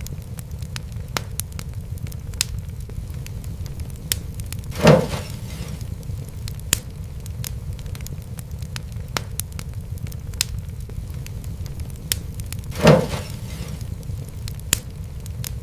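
Wood fire crackling: a steady low rumble of flame with frequent sharp crackles. Two louder pops come about 5 seconds and 13 seconds in.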